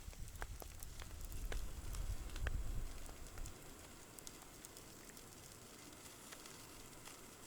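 Campfire crackling, with scattered sharp pops from the burning wood. A low rumble underlies the first three and a half seconds, then stops.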